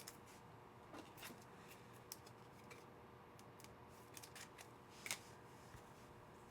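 Faint handling of trading cards: a few soft, scattered clicks and rustles of cards being flipped and sorted, in an otherwise near-silent room.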